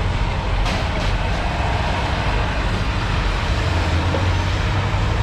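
Steady vehicle noise, an engine running with a low hum under an even rumble, with a couple of faint clicks about a second in.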